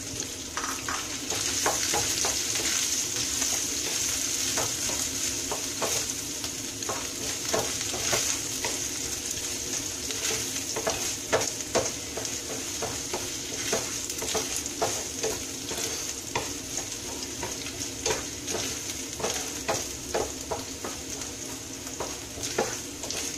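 Diced coconut pieces sizzling in hot ghee in a non-stick frying pan, being fried until they brown. A wooden spatula stirs them, with frequent short clicks and scrapes against the pan.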